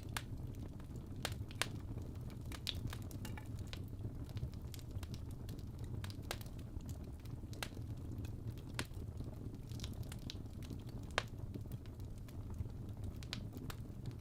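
Wood fire crackling, with scattered sharp pops over a low steady rumble of flames; one pop stands out about eleven seconds in.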